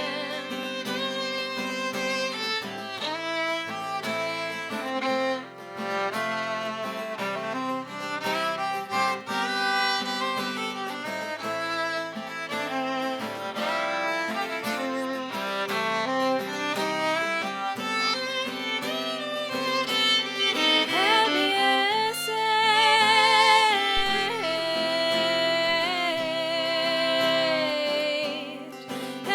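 Instrumental passage on fiddle and acoustic guitar: the fiddle plays the melody over a guitar accompaniment, and in the second half it holds long notes with vibrato.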